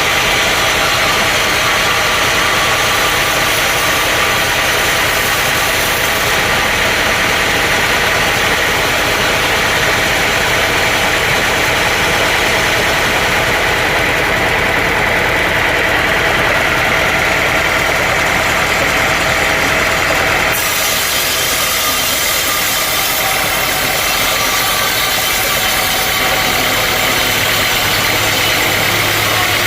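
Sawmill machinery running steadily: a dense, loud machine noise with several steady tones. The sound changes abruptly about twenty seconds in.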